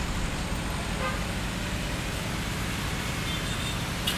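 Street traffic ambience: a steady rumble of road vehicles, with a faint short high tone late on and a brief click near the end.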